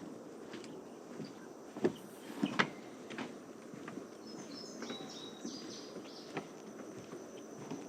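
Footsteps on a trail at a steady walking pace, with a songbird singing a short phrase of high notes in the middle.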